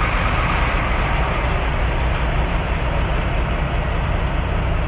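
A grain truck hauling a load of corn, driving on the road with steady engine and road noise.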